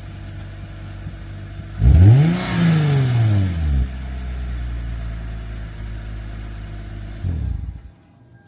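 2009 Lexus IS250's 2.5-litre V6 idling through a Tanabe Revel Medallion cat-back exhaust. It is revved once about two seconds in, rising and falling back to idle, and is switched off near the end.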